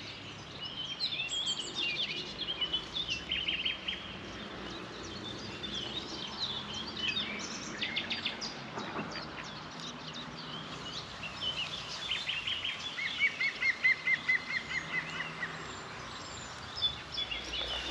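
Songbirds singing and calling in a mix of chirps and warbles. About thirteen seconds in, a fast trill of evenly repeated notes runs for a couple of seconds.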